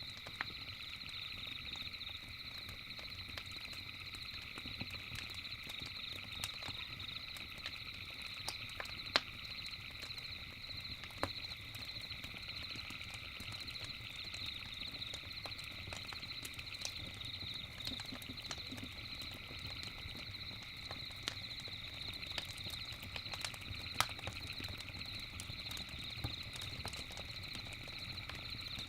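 Campfire crackling, with scattered sharp pops (the loudest about nine, eleven and twenty-four seconds in), over a steady high-pitched night chorus of calling insects or frogs.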